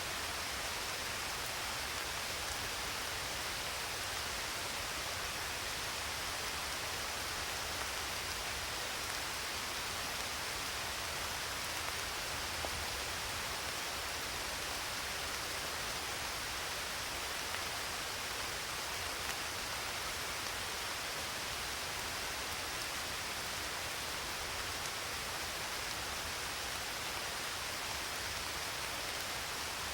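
Steady rain falling, an even hiss with no distinct drops or changes.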